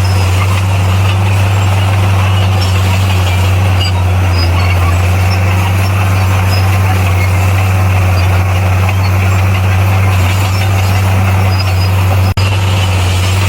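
Komatsu D58P bulldozer's diesel engine running steadily with a deep, even hum and mechanical clatter. The sound breaks off for an instant near the end.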